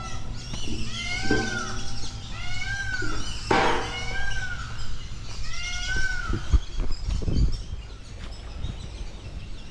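A bird calling over and over, each call a short pitched cry that rises and falls, about one a second, with a harsh rasp about three and a half seconds in.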